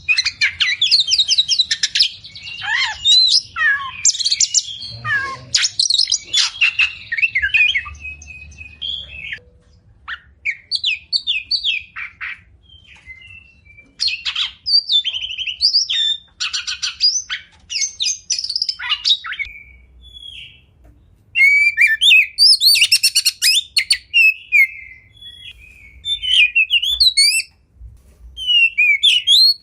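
Oriental magpie-robin (kacer) singing a rich, varied song of rapid whistles, trills and chattering notes in loud bursts, with quieter stretches about a third of the way in and again a little past two-thirds.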